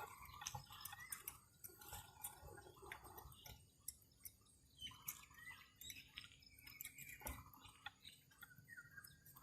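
Faint bird calls: short chirps and gliding notes repeated at intervals, over scattered small clicks.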